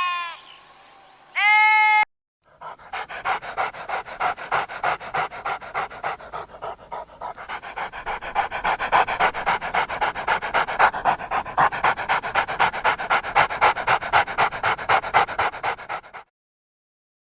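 A bleat ends in the first two seconds. Then, after a brief gap, a dog pants fast and evenly, about five or six breaths a second, for some fourteen seconds, and stops suddenly.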